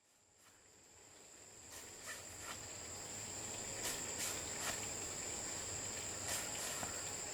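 Forest ambience fading in, with a steady high insect trill like crickets and a few scattered sharp clicks or knocks.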